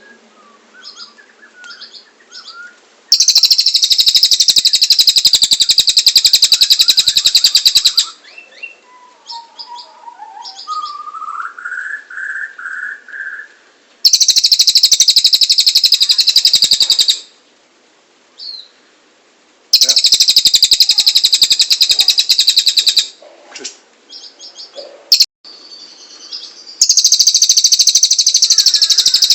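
Cililin bird singing: loud bursts of very rapid, high trilling, each lasting about three to four seconds and coming four times, with softer chirps and a short series of rising whistled notes in the gaps.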